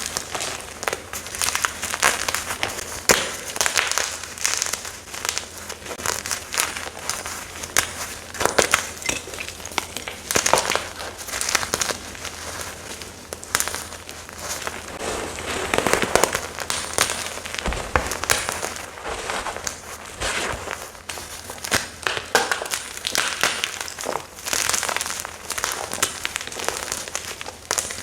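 Gym chalk chunks being crushed and crumbled: a dense, irregular run of crunching and crackling, with louder crunches scattered throughout.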